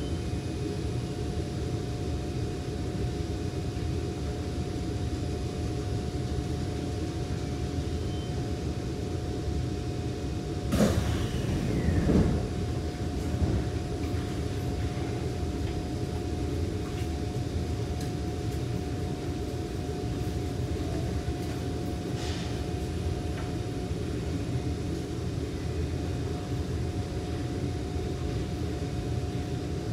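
Steady low rumble and hum of a Kawasaki C151 metro train, with a constant mid-pitched whine. About eleven seconds in comes a sharp loud sound that trails off in a falling sweep, followed by a second smaller one.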